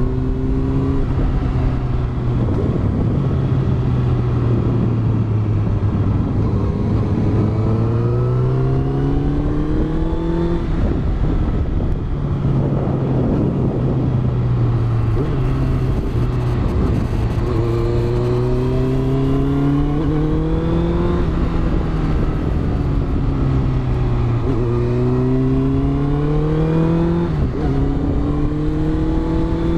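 Honda CBR650F's inline-four engine through a Yoshimura exhaust, heard onboard while riding: the revs climb several times under throttle and drop back between pulls. Steady wind rush runs under it.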